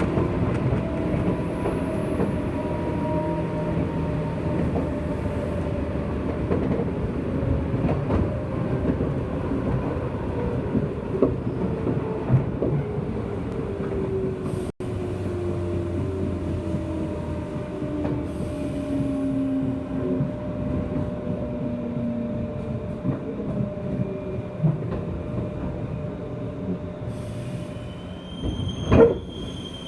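JR West 201-series chopper-controlled electric train heard from inside a motor car, its traction motor and gear whine falling slowly in pitch as the train slows over the rails. Near the end a brief sharp squeal with high ringing tones.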